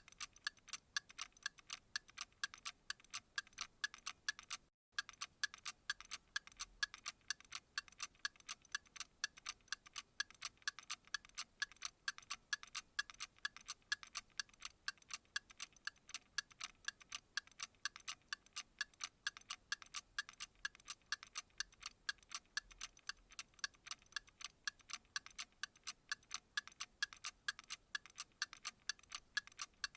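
Clock-like ticking, steady and even at several ticks a second, with a brief gap of silence about five seconds in.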